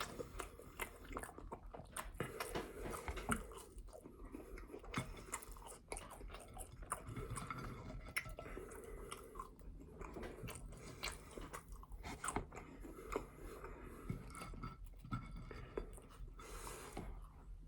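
A person chewing and biting into a burger close to the microphone: a steady run of soft, irregular mouth clicks and small crunches.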